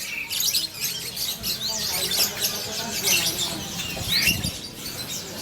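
Many caged songbirds chirping and calling at once: a dense, overlapping chatter of short high chirps and quick upward-sliding notes, with a faint murmur of voices underneath.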